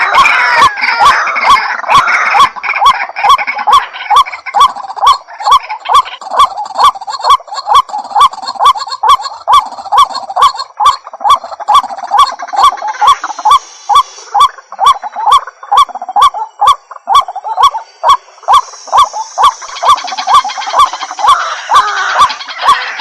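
White-breasted waterhen (ruak-ruak) calling loudly: a harsh note repeated in an even, fast rhythm of about two a second, with fainter overlapping calls higher up in the second half.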